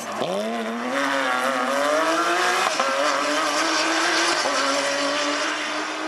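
Porsche rally car engine accelerating hard. The note drops sharply at the start, then climbs steadily, steps once near the three-second mark as it changes gear, and holds a high, even pitch toward the end.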